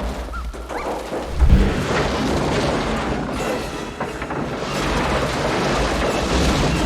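Volcanic eruption effects on a film soundtrack: a deep, continuous rumble with dense crackling debris noise, breaking in suddenly, with a heavy boom about a second and a half in.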